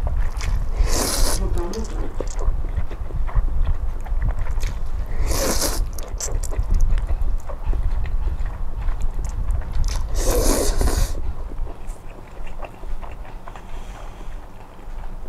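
Noodles in cold soybean broth (kong-guksu) being slurped three times, about five seconds apart, with faint chewing between the slurps. A steady low rumble runs underneath.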